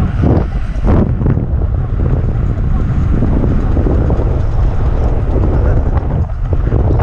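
Electric skateboard rolling over a rough trail: a steady, loud low rumble of the wheels with wind buffeting the microphone.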